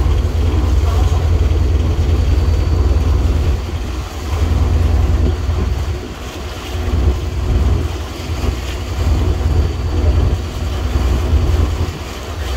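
A boat's engine running steadily, with wind buffeting the microphone in gusts.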